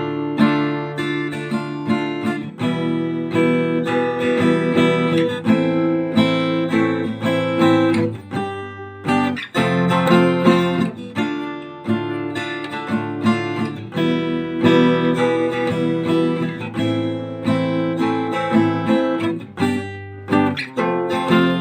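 Acoustic guitar strummed in the eight-stroke pattern, a chord progression played through with the chord changing every few seconds; open G and Fmaj7 shapes stand in for the barre chords.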